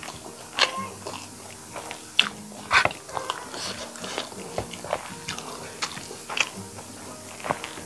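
Close-miked chewing and wet lip-smacking from someone eating chicken curry and rice: an irregular run of sharp mouth clicks and smacks, with the strongest a little under three seconds in.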